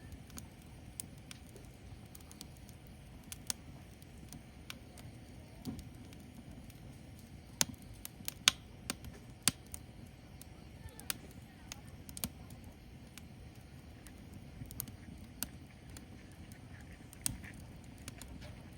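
Firewood burning in an open fire, crackling with irregular sharp pops and snaps over a low, steady rumble of flame. The pops come thickest and loudest about eight to nine and a half seconds in, with another loud snap near the end.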